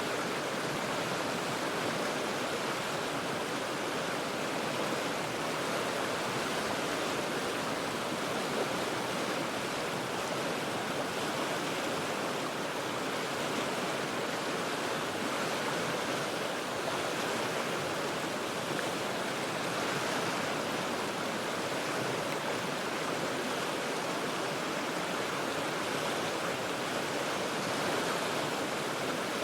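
Cheat River rapids rushing over rocks, a steady, even roar of flowing water heard from well above the river.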